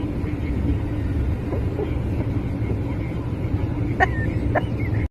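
Steady low rumble like a moving vehicle heard from inside, with two faint clicks near the end.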